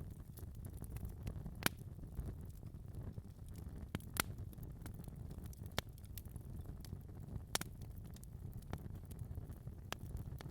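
Fire burning in a fireplace: a low, steady rumble of flames with sharp crackles and pops at irregular intervals, about one every second or two.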